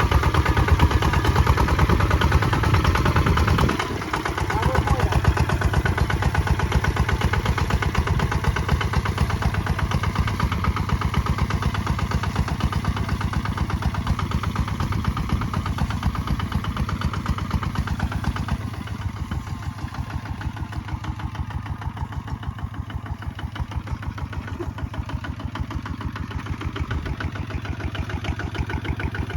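Kubota ZT155 single-cylinder diesel engine running with a steady, rapid chug, as the tractor works under plowing load. The level dips briefly about four seconds in and the engine runs a little quieter from about halfway.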